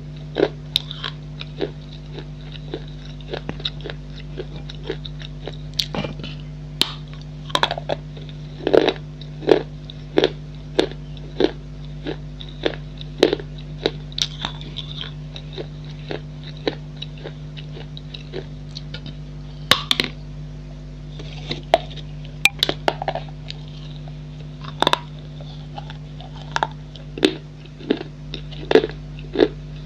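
Pieces of a baked clay pot bowl being bitten and chewed: irregular sharp crunches, a few every second, over a steady low hum.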